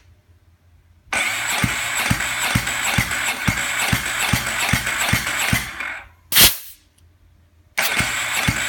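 Ducati 749 L-twin engine cranked over by its electric starter for a compression test, turning with an even pulse about three times a second. It stops after about five seconds, a short loud hiss follows, and the cranking starts again near the end.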